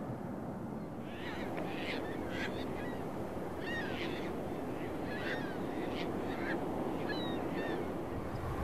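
Birds calling in short, repeated cries, a dozen or so from about a second in, over a steady rushing background of wind and water.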